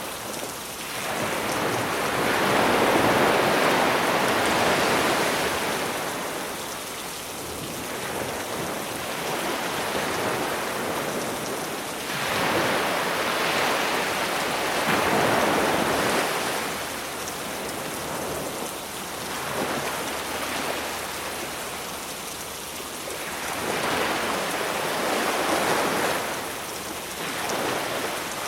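Black Sea waves breaking and washing up a beach in slow surges, one about every ten seconds, under a steady hiss of rain.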